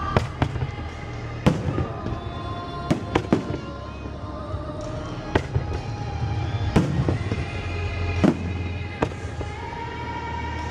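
Fireworks display: about a dozen sharp bangs of shells bursting at irregular intervals, over music playing along with the show.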